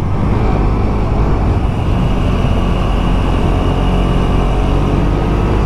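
Motorcycle engine running steadily while riding, with the rush of wind noise over it.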